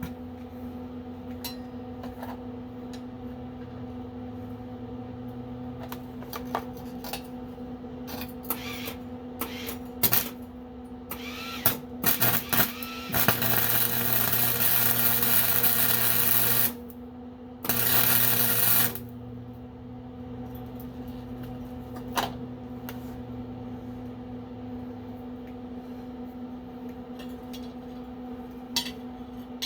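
Flux-core wire welder striking an arc: scattered short crackles, then a steady sizzling weld for about three and a half seconds, a brief stop, and another burst of about a second. A steady electrical hum runs underneath.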